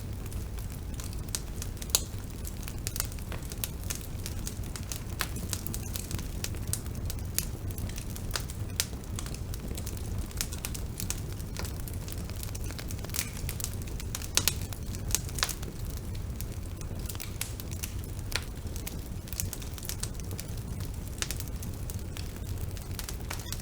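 Wood fire burning, with a steady low rumble of the flames and frequent irregular crackles and pops from the burning wood, a few sharper pops standing out, notably about two seconds in and a cluster a little past the middle.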